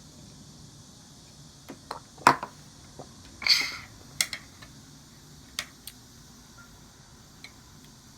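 Scattered sharp clicks and clinks of eating utensils against a dish, with a short scraping rattle in the middle.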